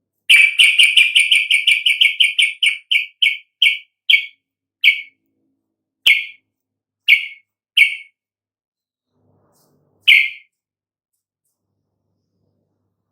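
Yellow-vented bulbul (trucukan) calling: a quick run of short, sharp chirps, about five a second at first, that slows and spreads out, ending with a few single chirps a second or more apart.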